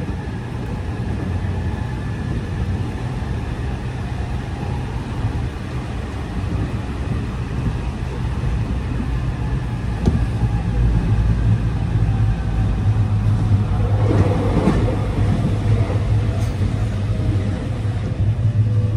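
Inside a JR local commuter train running at speed: a steady low rumble of wheels on rails. It gets louder about halfway through, with a stretch of clatter later on, and another train passes close alongside near the end.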